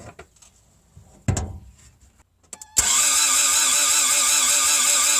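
A thump about a second in, then, nearly three seconds in, the starter of a 1985 Toyota MR2's 4A-GE 1.6-litre 16-valve engine begins cranking it over with a steady, even pulsing. The engine turns but does not fire: a no-start condition, being cranked here to check for spark.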